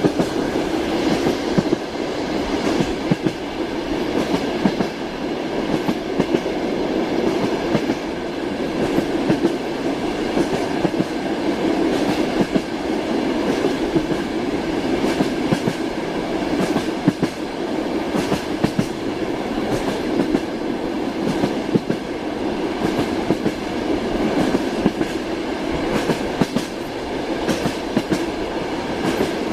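Train running steadily along the track: a continuous rumble with the wheels clattering over the rails.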